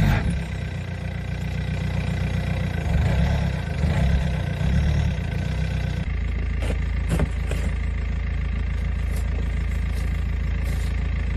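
A BMW 3 Series estate's engine running, its note swelling and falling in the first half. From about six seconds in it drones steadily under a few short scrapes of a plastic snow shovel digging snow from around the front wheel.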